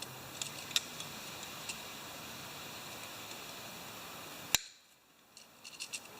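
Faint clicks and ticks of hand tools and wire being handled over a low steady hiss, with one sharp click about four and a half seconds in.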